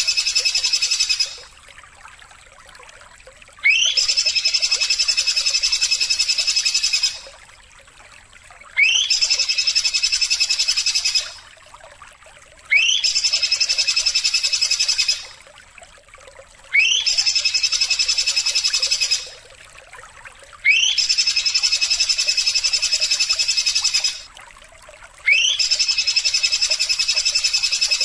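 A repeated animal call used as a tutor song for cage birds. Each call opens with a quick rising whistle that runs into a steady, buzzy trill about three seconds long, and the calls repeat about every four seconds with short quiet gaps between.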